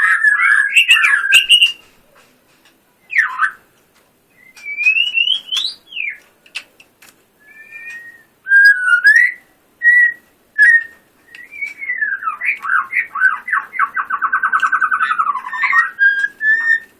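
White-rumped shama singing in full voice: loud, varied whistled phrases with rising and falling glides, separated by short pauses, ending in a long, fast rattling trill a few seconds before the end.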